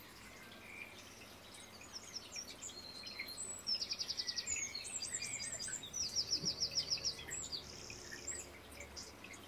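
Songbird singing quick high trills of rapidly repeated notes, twice, about four and six and a half seconds in, with scattered chirps between, over a faint steady background hiss.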